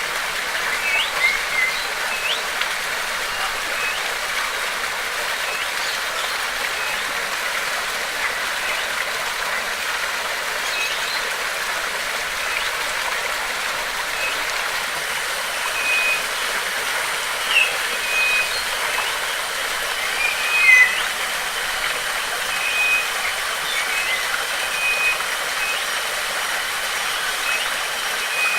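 Steady rush of flowing water with birds chirping and whistling over it in short, scattered calls. A thin, high steady tone joins about halfway through.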